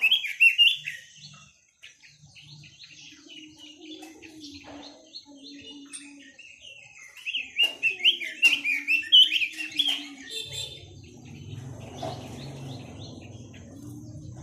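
A quế lâm songbird singing in quick, loud warbling phrases: one at the start and a longer run of rapid rising-and-falling notes from about seven to ten seconds, with softer twitters between them. A low hum and, from about ten seconds, a low rumble sit underneath.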